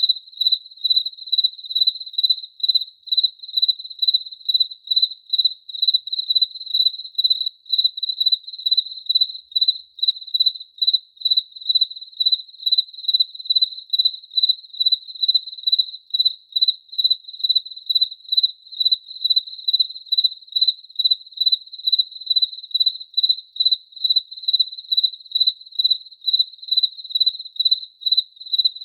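A cricket chirping steadily: one high, pure chirp repeated evenly, about two chirps a second.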